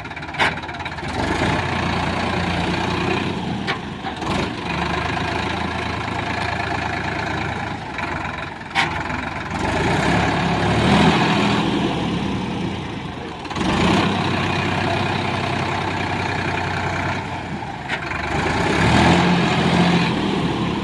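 Sonalika tractor's diesel engine running and revving up and easing off several times, working under load as the tractor is driven in the river bed. A few sharp knocks stand out over the engine.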